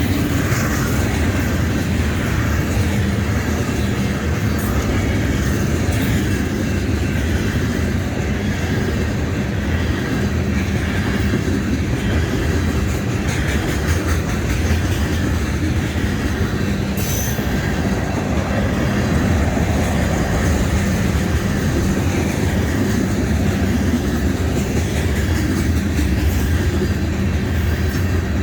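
A Union Pacific train's cars rolling past: a steady loud rumble of wheels on rail with clicking over the rail joints and some wheel squeal. A brief high-pitched screech about seventeen seconds in.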